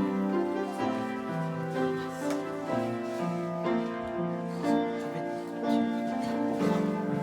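Piano playing slow, held chords: the instrumental introduction to a worship song.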